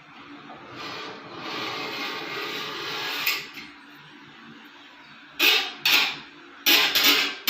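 Harsh scratching noise, a long drawn scrape followed by several short loud scrapes near the end.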